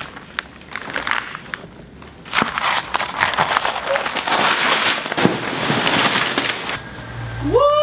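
Packaging being torn open and crinkled by hand: a dense run of crackles and rustles over a few seconds, ending in a spoken, drawn-out "What?".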